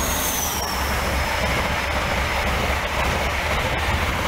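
Diesel passenger train passing at speed on the far track, a steady rolling rush and rumble. A thin high whine falls in pitch about half a second in.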